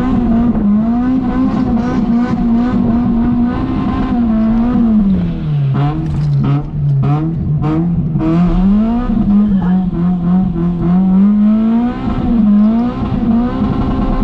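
Toyota Altezza's 3S-GE four-cylinder engine held at high revs during a drift. The revs drop for a few seconds about midway, then climb back up and bounce at the top, which the driver says is the rev limiter.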